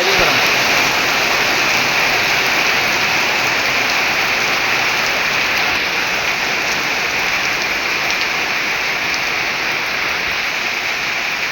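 Rain falling steadily: a loud, even hiss of drops that holds without a break.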